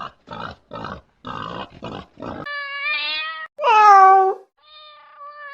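A pig grunting in quick short snorts, about three a second, then a cat meowing three times in long drawn-out calls, the loudest one falling in pitch.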